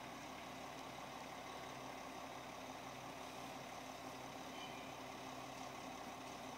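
Roll-off truck's engine running steadily, an even hum with no sharp knocks or bangs.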